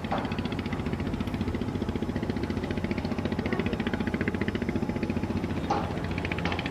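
An engine running steadily with a fast, even pulse, with a brief higher sound near the start and again near the end.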